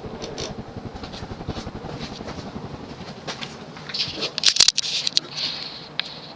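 Early-1980s Sears (Emerson) ceiling fan running on high with a slight, low, pulsing motor moan. About four seconds in, louder rustling noise and a couple of sharp clicks come in.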